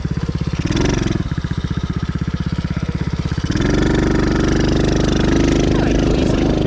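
Dirt bike engine idling with an even pulse, a short throttle blip about a second in, then the throttle opens about three and a half seconds in and the engine runs louder and higher.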